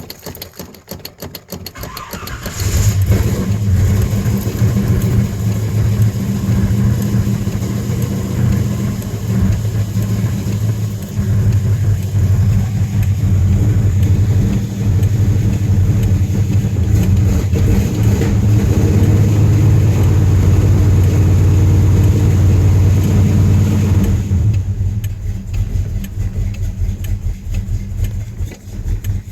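Car engine cold-starting after sitting for 16 days: it cranks, catches about two and a half seconds in and runs loud with the gas pedal pumped, then settles to a quieter idle about 24 seconds in.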